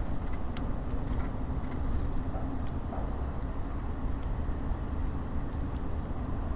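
Steady low rumble of distant city traffic, with faint sharp ticks scattered through it.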